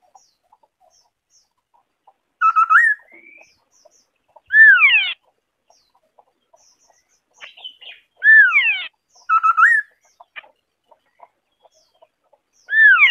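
White-browed scimitar babbler singing: loud phrases repeated every two to four seconds. Short clusters of quick rising notes alternate with longer whistles that slide steeply down in pitch.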